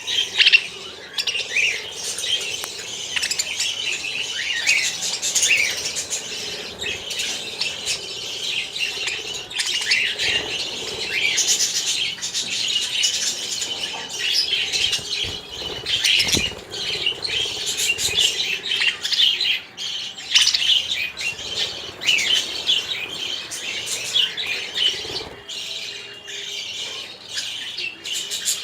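A flock of small birds chirping and squawking without a break, many calls overlapping, with scattered short flutters of wings.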